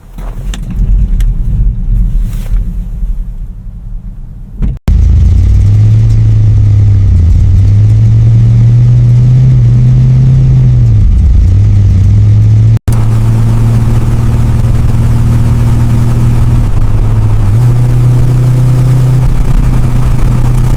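Muscle car engine running at a steady, deep idle, its pitch dipping once and stepping up a little near the end. Before it, for the first few seconds, a quieter low rumble with a few clicks.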